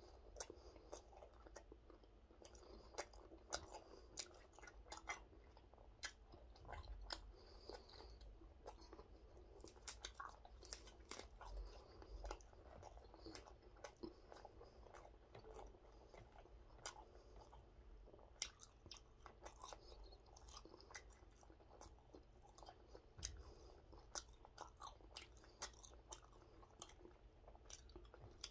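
Faint close-up chewing of a wrap of gwamegi in raw napa cabbage, with many small wet mouth clicks and crunches of the cabbage leaf.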